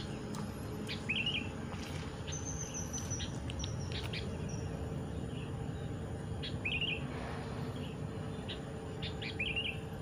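Wild birds calling: a short, quick warbled phrase heard three times a few seconds apart, with a thin, high whistle stepping down in pitch between them.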